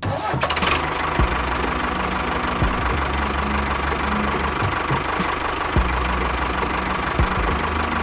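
A small motor running steadily with a constant whine, a low rumble and a few scattered knocks.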